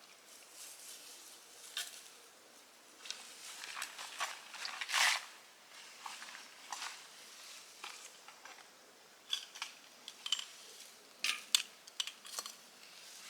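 Irregular sharp clicks and crunches from something being handled or worked by hand, with one longer, louder crunch about five seconds in and a cluster of sharp clicks near the end.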